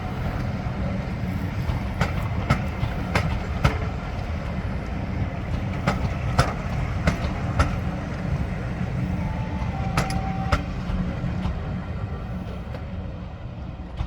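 Diesel-hauled train running on the rails: a steady low rumble with irregular sharp clicks from the track, and a brief higher tone about ten seconds in.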